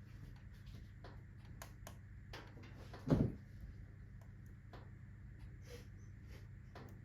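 Wood fire in a fireplace crackling, with scattered sharp pops and ticks, and one louder dull low thump about three seconds in.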